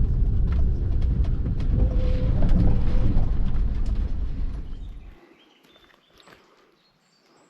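A heavy low rumble, like road or wind noise, for about five seconds, cutting off suddenly to a quiet outdoor scene with faint bird chirps.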